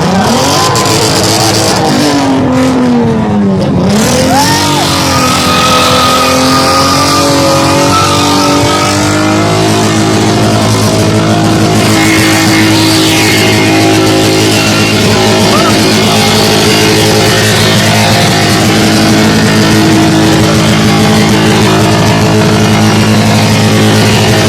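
Car engine revving, its pitch dropping and rising sharply in the first few seconds, then held at a steady, raised speed.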